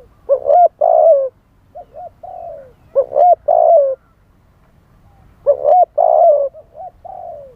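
Spotted dove cooing loudly in three repeated phrases, each made of short rising coos followed by longer drawn-out coos.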